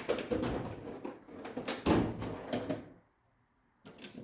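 Knocks and clatter of metal parts and tools being handled and moved around during work on a car's steering. The sound cuts to dead silence for a moment about three seconds in, then a couple more knocks follow.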